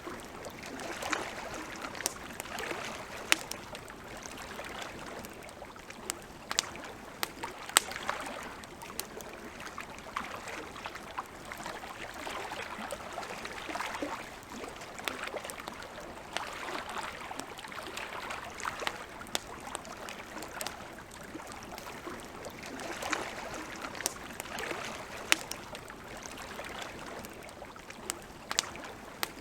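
Wood campfire crackling, with irregular sharp pops scattered throughout, over gentle lake water lapping in soft, recurring swells.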